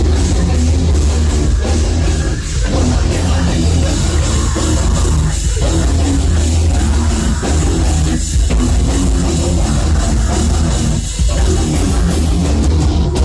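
A heavy metal band playing live and loud: distorted guitars and bass over a drum kit, with a few brief stop-start gaps in the riff.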